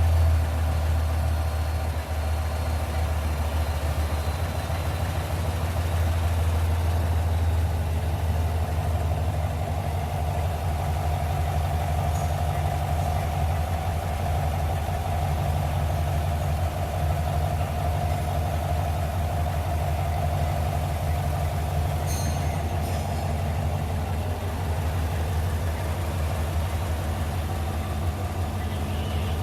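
2021 Tahoe/Yukon engine idling steadily, a truck with a logged misfire code and a reported ticking noise.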